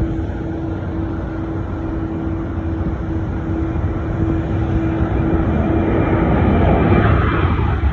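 Jet airliner's engines, the noise growing louder toward the end, with a steady hum underneath that stops about six seconds in.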